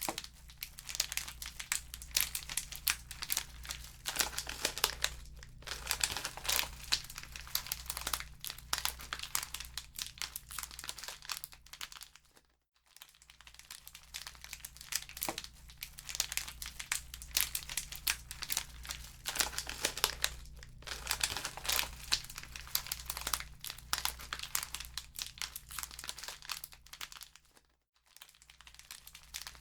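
Wood fire in a fireplace crackling, a dense run of small snaps and pops, with a low steady hum underneath. The sound drops out briefly about halfway through and again near the end.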